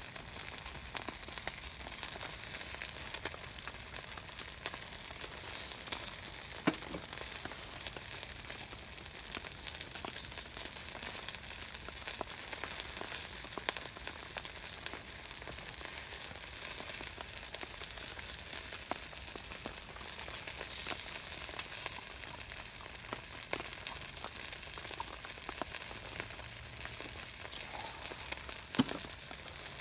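Food sizzling as it grills: a steady hiss dotted with fine crackles, with a louder pop about seven seconds in and another near the end.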